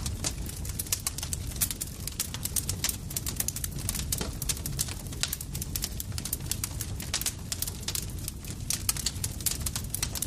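Campfire crackling, with many irregular sharp pops and snaps over a low, steady sound of burning.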